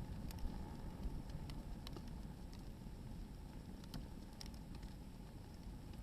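Hardwood firewood crackling as it burns, with sharp pops at irregular intervals over a low steady rumble.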